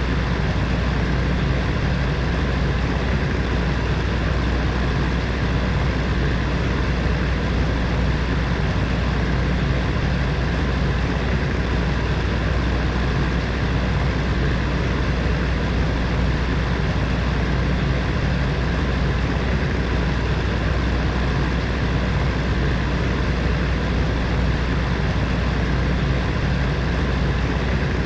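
Electric heater fan running steadily: an even rush of moving air over a low, constant hum.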